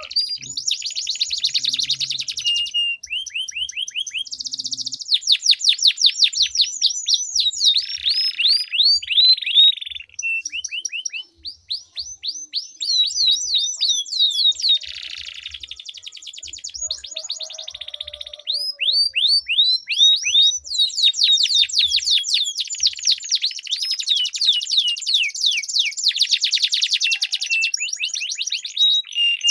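Domestic canaries singing long rolling trills: fast runs of repeated sweeping notes that change tempo from phrase to phrase, with a brief lull about ten seconds in.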